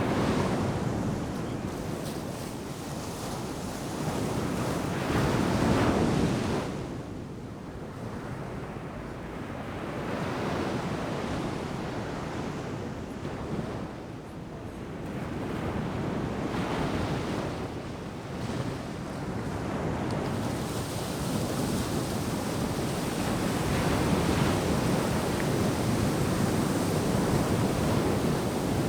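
Ocean surf breaking and washing up on the beach, a steady wash of noise that swells and eases every five or six seconds as each wave comes in.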